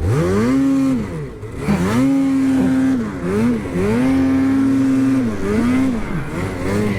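Ski-Doo 850 two-stroke snowmobile engine under hard throttle. It revs up and holds high, eases off and comes back on about four times, with quick blips between.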